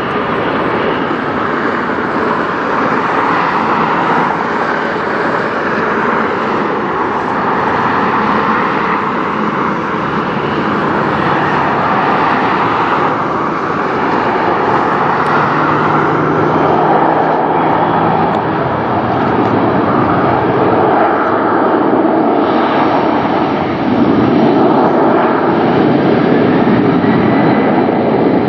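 Jet airliner engines running at takeoff power, a loud steady rushing roar that grows a little louder near the end.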